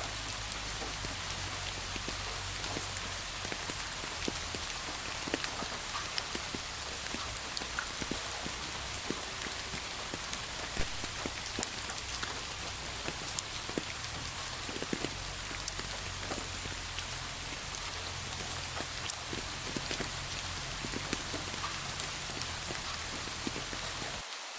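Steady rain falling, an even hiss with many separate drop hits clicking through it. The low end drops out briefly just before the end.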